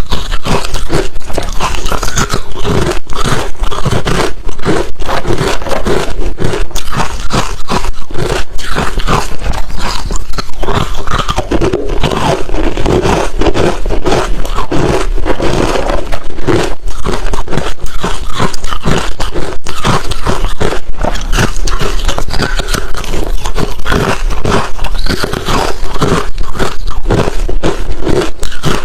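Close-up, loud crunching of hard refrozen crushed ice being bitten and chewed, a dense run of sharp irregular cracks with no pause.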